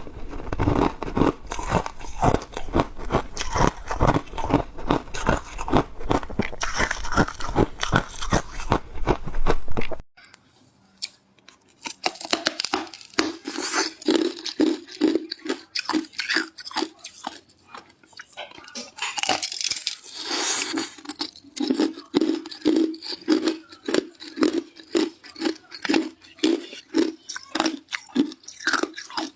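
Ice cubes being chewed close to the microphone: rapid, rhythmic crunching, several strokes a second. The sound cuts off abruptly about ten seconds in. After a short pause the crunching resumes, with a few louder sharp bites into the ice among steadier chewing.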